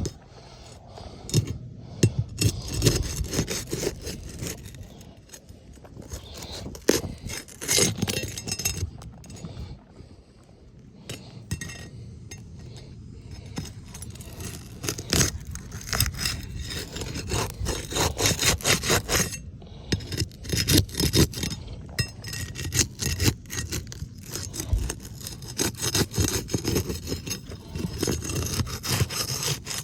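Irregular scraping and rubbing strokes with sharp clicks as a roof shingle is worked at and pried open.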